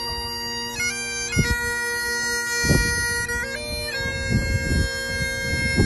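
Great Highland bagpipes playing a tune over their steady drones, the chanter stepping between held notes. Low rumbles come and go underneath.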